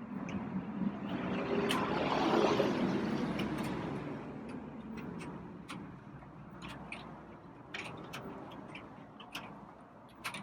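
Light rain, with drops tapping in scattered sharp ticks. A rushing swell of noise rises about a second in, peaks, and fades over the next few seconds.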